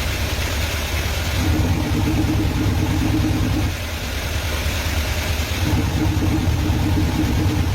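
Car engine running through a 3-inch exhaust with the electric cutout open, giving a loud, deep exhaust rumble. Twice the engine note rises and is held for about two seconds, once about a second and a half in and again near the end.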